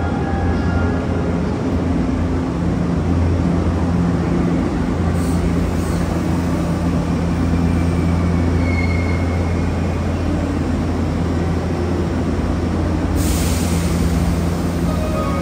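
Sanyo Electric Railway 3050-series resistance-control electric train pulling into the platform and braking to a stop, with a steady low hum. A short squeal comes about nine seconds in, and a burst of hiss about thirteen seconds in.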